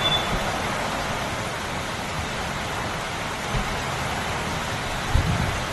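Heavy rain pouring down onto a street, a dense, steady hiss, with a couple of low thuds near the end.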